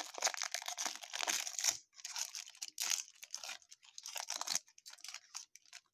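A card-pack wrapper being torn open and crinkled by hand: a run of dry crackling and tearing with short pauses, thinning to a few scattered crinkles near the end.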